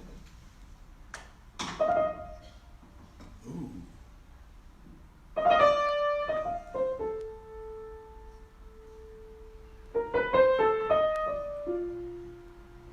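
Solo piano improvisation: a single note about two seconds in, then two short phrases of chords stepping down to a held low note, the first starting about five seconds in and the second about ten seconds in.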